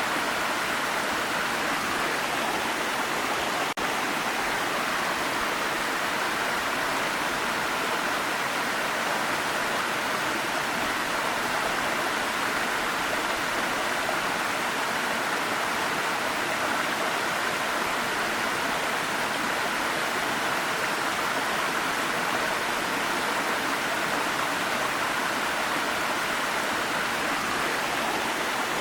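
Waterfall: a steady, unbroken rush of falling water, with a very brief dip about four seconds in.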